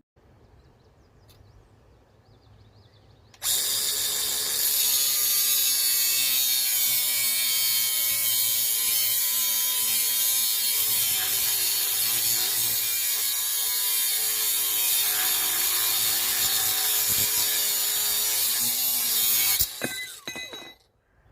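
An electric power tool switches on about three seconds in and runs steadily for about sixteen seconds, with a loud high hiss over a humming whine whose pitch sags a little at times as if under load, then stops suddenly.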